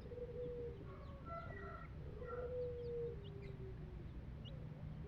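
Birds calling in drawn-out held notes that step between pitches, with a few short high chirps, over a steady low rumble.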